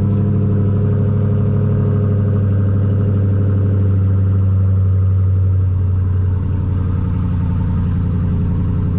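Dodge Hellcat's supercharged 6.2-litre Hemi V8 idling steadily, a little quieter from about six seconds in.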